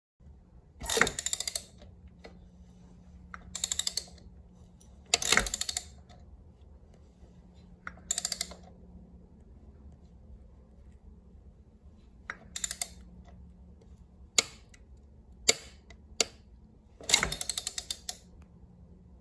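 KTM 950 LC8 V-twin engine being turned over slowly by hand, giving short bursts of rapid metallic clicking and a few single sharp clacks, the cam noise being checked.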